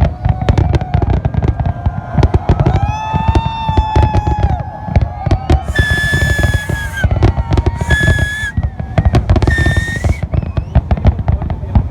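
New Year fireworks display: a dense, continuous barrage of bangs and crackles over a deep rumble. Three shrill whistle tones sound in the middle, each about half a second to a second long.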